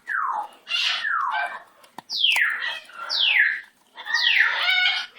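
Pet bird giving a run of about six meow-like calls, each falling steeply in pitch.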